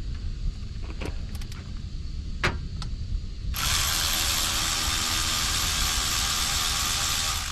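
A few light clicks over a low steady rumble. About three and a half seconds in, a loud, even mechanical whirring hiss starts suddenly and runs for about four seconds.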